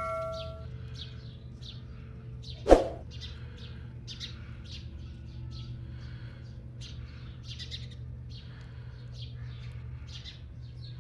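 Indian ringneck parrot giving a run of short, soft, high chirps, irregularly spaced. One loud sharp call or click about a quarter of the way in, and a bell's ring dies away at the start.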